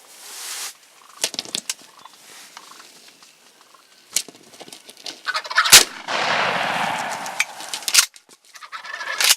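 Wild turkey toms gobbling. About six seconds in there is one very loud, sharp crack, followed by a couple of seconds of loud noise.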